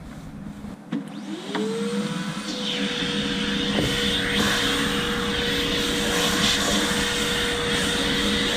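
A high-speed electric power-tool motor switches on with a click about a second in. Its whine rises quickly in pitch and then runs steady, with a rushing hiss building over the following couple of seconds.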